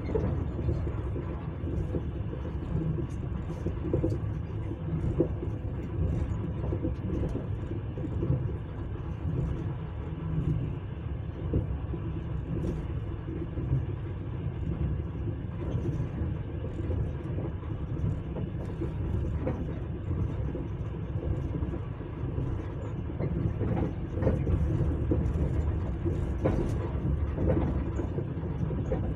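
Train running along the rails: a steady low rumble of wheels on track, with frequent short, irregular clicks and knocks.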